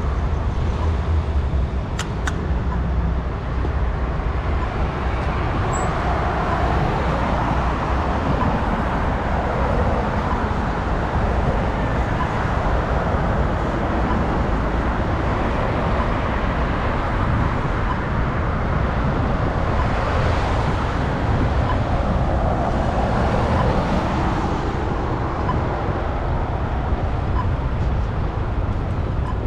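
Road traffic noise heard while cycling: a steady noise that swells as vehicles pass, around seven seconds in and again between about twenty and twenty-four seconds, over a constant low rumble of wind on the microphone.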